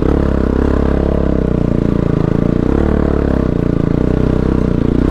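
Bajaj Pulsar AS200 single-cylinder motorcycle engine running steadily under way, its pitch wavering slightly with the throttle.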